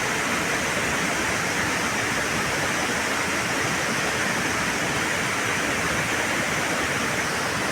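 Steady, even rushing noise with no engine running and no distinct events.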